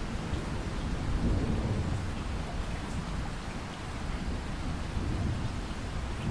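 Steady rainfall with a low rolling rumble beneath it, swelling about a second in.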